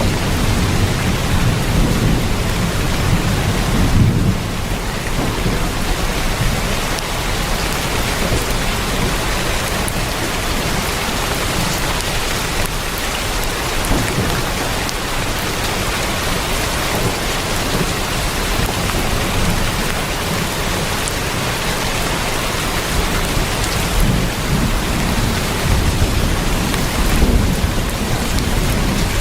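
Heavy rain drumming on a tin roof, a dense steady hiss. Low rumbles swell in the first few seconds and again near the end.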